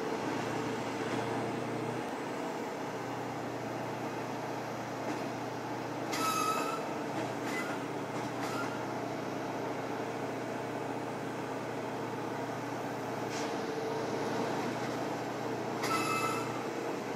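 Train standing on the track close by, running with a steady mechanical drone. Over the drone come several short high-pitched squeals with hiss: about six seconds in, twice shortly after, and again near the end.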